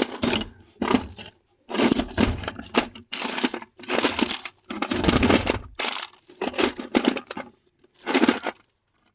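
Small metal pipe fittings clinking and rattling as a hand rummages through a parts bin, in about ten short, uneven bursts.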